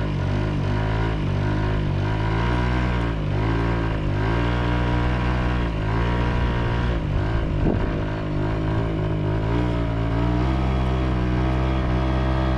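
A moped's small engine running, its pitch dipping and climbing again about once a second as the throttle is worked, then holding steadier near the end. The moped is leaking oil, and the riders judge it done for.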